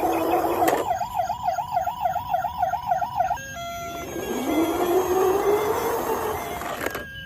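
Electronic emergency-vehicle siren sounds: a fast warbling siren at about four cycles a second that stops abruptly about three and a half seconds in, followed by a slower rising wail over a noisy hiss that cuts off suddenly near the end.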